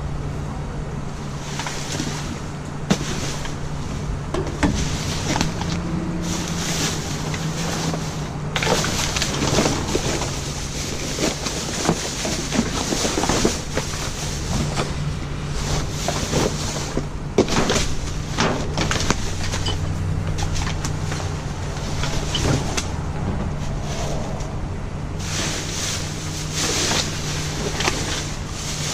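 Someone rummaging through a dumpster: rustling of bags and scattered knocks and clicks, over a steady low hum.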